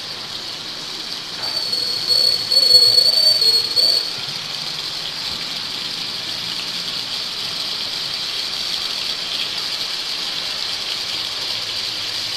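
Marinated paneer cubes sizzling steadily as they fry in hot oil and ghee in a pan. From about one and a half to four seconds in, a loud high whistling squeal sounds over the sizzle.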